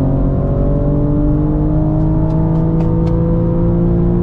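BMW G80 M3's twin-turbo straight-six pulling under hard acceleration in a high gear, its pitch climbing slowly and steadily over heavy road and wind noise.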